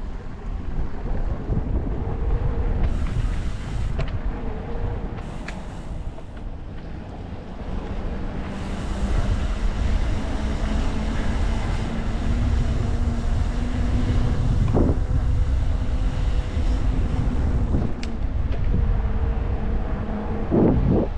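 Wind buffeting the microphone of a moving e-bike. A faint steady hum joins in about a third of the way through.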